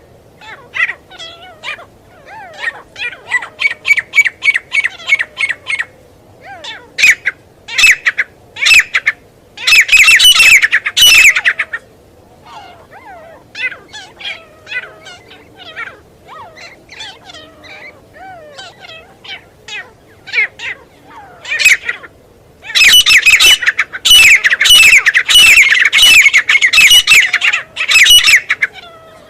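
Teetar (francolin) calling: series of quick repeated harsh notes, with loud bouts of calling about ten seconds in and again for several seconds near the end.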